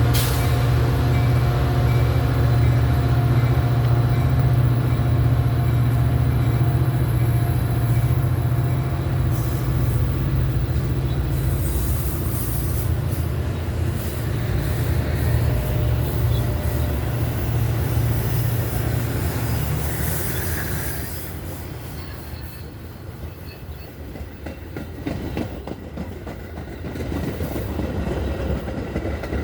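Diesel train running on the rails: a steady low engine drone with squealing wheels and rail clatter. The noise eases off about two-thirds of the way through, then builds again near the end.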